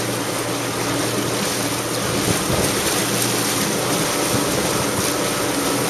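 Jet ski engine running steadily under a loud, even rush of water and wind.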